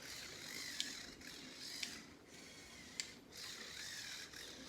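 Small electric motor and plastic Lego Technic gears of a remote-controlled tow truck whirring faintly, with light clicks about once a second.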